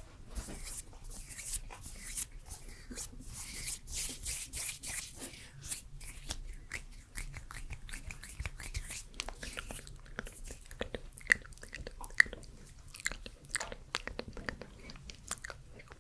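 Close-miked ASMR mouth sounds: a run of short, wet clicks and smacks, with soft hand rustling between them.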